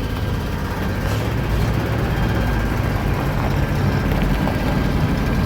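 1978 Chevrolet C60 bucket truck running, a steady low engine rumble that grows slightly louder as the truck moves.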